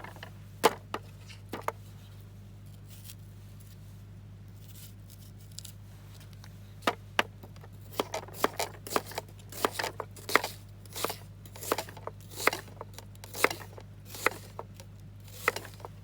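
Knife chopping onion on a cutting board. There are a few knocks in the first two seconds, then a pause, then a run of sharp chops at about two a second.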